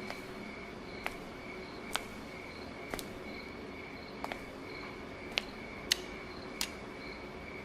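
Crickets chirping steadily in a pulsing high trill, with eight sharp, irregular clicks about a second apart.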